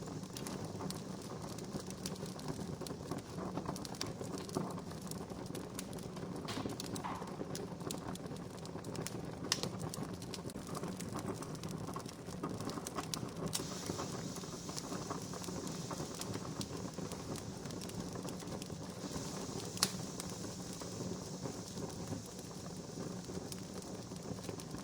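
Wood fire crackling: a steady low hiss with many small snaps and two sharper pops, one near the middle and one about four-fifths through.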